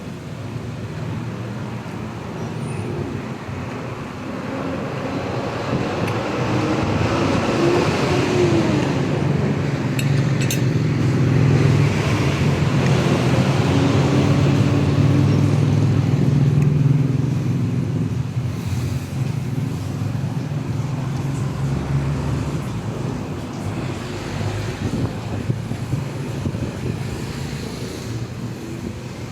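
Road traffic: a motor vehicle's engine running close by, growing louder over several seconds, loudest in the middle, then easing off, over a steady traffic hum.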